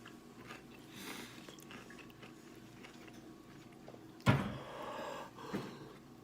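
Faint biting and chewing on fried chicken wings, with one loud knock about four seconds in.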